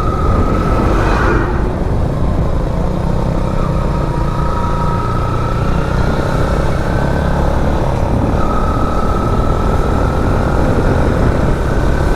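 Motorcycle riding along a road: the engine running with heavy rumble from wind and road noise, and a faint whine that comes and goes and creeps slightly up in pitch. A brief louder swell about a second in.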